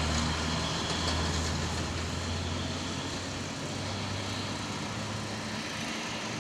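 Heavy diesel engine running steadily under a broad rumble of rolling noise, slowly fading as it moves away.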